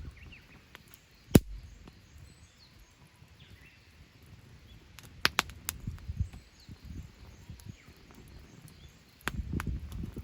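Wood campfire crackling, with sharp pops, the loudest about a second in and a quick run of them in the middle, over a low rumble that swells near the end. Faint bird chirps in the background.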